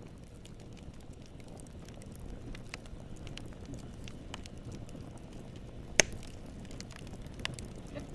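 Steady low rumbling noise with irregular sharp crackles and pops scattered through it, one much louder pop about six seconds in.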